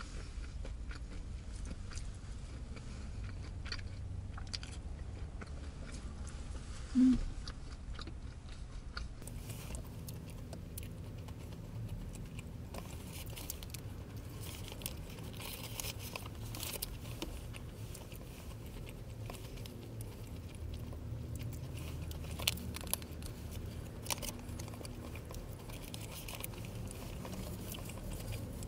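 A person biting into and chewing a burger close to the microphone, with small wet clicks and crunches, over a steady low hum. A short low hum-like sound comes about seven seconds in.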